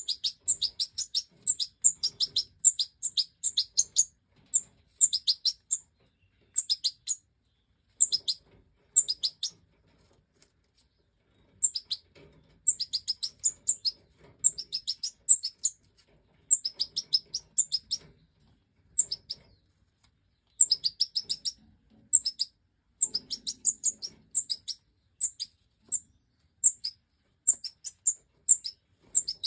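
Stieglitz Major goldfinch calling: short, high chirps in quick clusters of several notes, repeated over and over, with a pause of about two seconds roughly a third of the way through.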